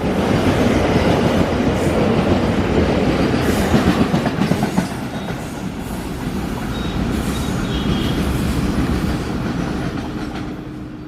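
Freight train rolling past, a steady rumble of wagon wheels clattering over the rails, with a few faint wheel squeals around the middle.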